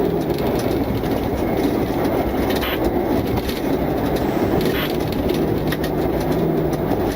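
Steady, loud rumbling drone of police vehicle or aircraft cabin noise, with a faint steady hum under it.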